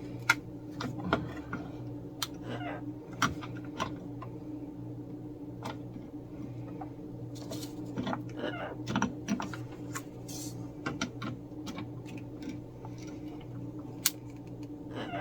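Scattered small clicks and taps over a steady low hum, with a few short pitched calls from a pet parrot.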